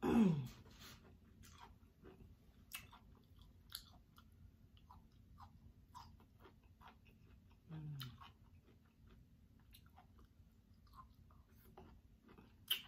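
A person chewing Cornish hen with small wet mouth clicks and smacks, close to the microphone. She gives a loud falling hum at the start and a short low hum about eight seconds in.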